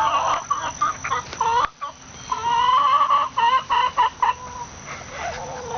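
Chickens clucking, many short calls one after another, with a brief pause about two seconds in and fewer calls near the end.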